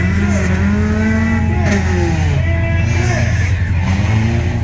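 Tuff truck engines revving hard over a steady low drone, their pitch rising and falling several times.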